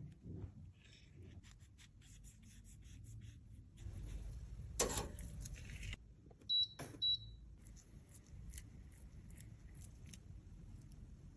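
Faint clicks and taps of small objects being handled, with a sharper click about five seconds in, then two short high beeps in quick succession.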